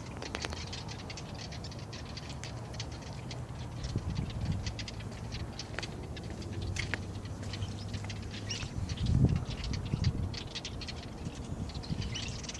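Small birds chirping in short, rapid chips. Under them a low steady hum stops about two-thirds of the way through, followed by a few dull thuds.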